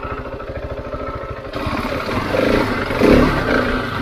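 Husqvarna 701 single-cylinder motorcycle engine running at low revs with an even pulse. About a second and a half in, it grows louder and rougher, peaking near three seconds.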